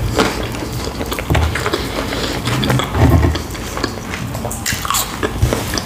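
Close-miked chewing and biting of a hot sandwich: irregular wet mouth sounds with small crunchy clicks.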